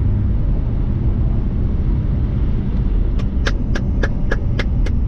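A vehicle engine running with a steady low rumble. A little over three seconds in, a quick run of sharp, evenly spaced ticks starts, about three or four a second.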